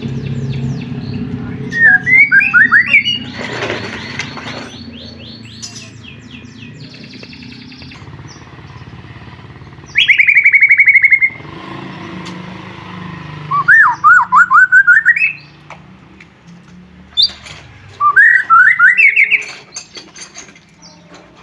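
White-rumped shama (murai batu) singing loud, separate song phrases: chains of quick notes sweeping upward, and a rapid trill about ten seconds in, with short pauses between phrases. A low steady hum lies under the first half.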